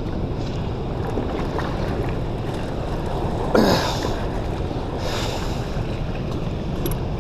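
Wind buffeting the microphone as a steady low rumble, with soft swells of water or gust noise. About three and a half seconds in there is a brief high squeak that falls in pitch.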